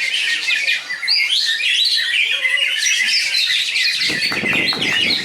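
Several competing cucak ijo (greater green leafbirds) singing at once: a dense, continuous tangle of fast, high chirping and squawking phrases. A rapid run of lower knocking sounds comes in near the end.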